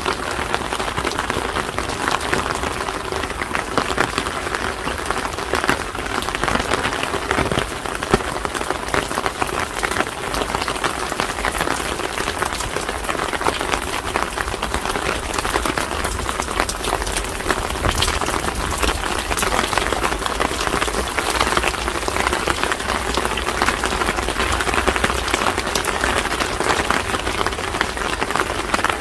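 Steady rain falling and pattering on surfaces, a dense continuous crackle of drops with no let-up.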